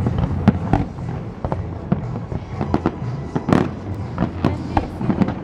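Aerial fireworks bursting in quick succession: a string of sharp bangs and crackles, the loudest about halfway through, over the show's music soundtrack with a steady bass underneath.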